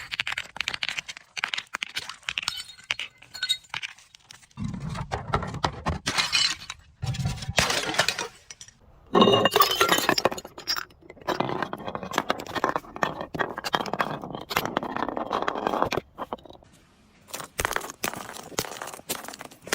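Glass being crushed: a long run of crackling and crunching with shards clinking and grinding, in uneven bursts. The loudest burst comes about nine to ten seconds in, and dull thuds sound around five to seven seconds.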